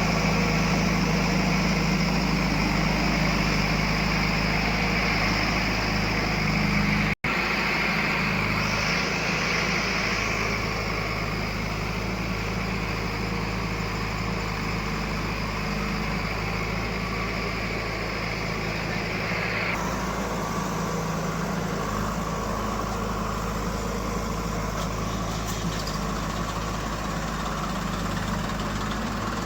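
Heavy diesel machinery running steadily at low revs, with a momentary break about seven seconds in.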